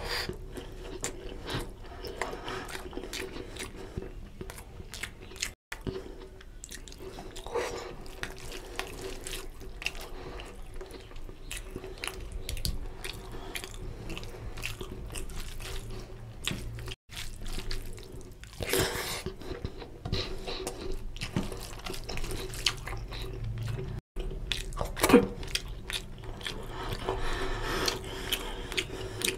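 Close-miked wet chewing and biting of chicken and egg curry with rice eaten by hand, with squelching as the fingers mix rice into the gravy. A faint steady hum runs underneath, and the sound cuts out briefly three times.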